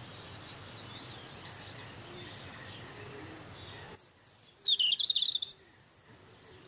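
Birds chirping and singing over a steady outdoor hiss. About four seconds in, the hiss drops away and a short burst of louder chirps follows.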